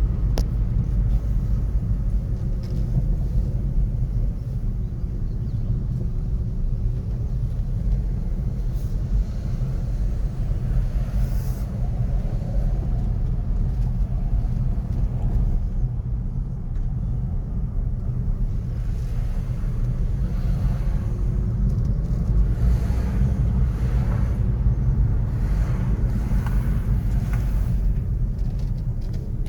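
City traffic ambience: a steady low rumble of road vehicles, with individual cars passing by more audibly in the second half.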